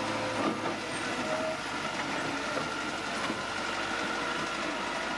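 Bulldozer running steadily at work, with a thin steady high whine over the machine noise and a few faint knocks.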